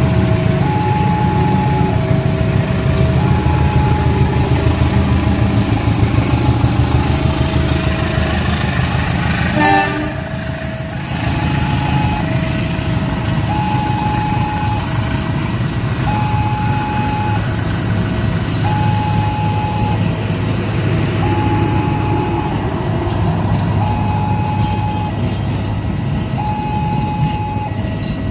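Railway level-crossing alarm sounding a steady two-tone alternating signal, high and low tones swapping about every second, over the rumble of a passing train. There is a brief break in the sound about ten seconds in.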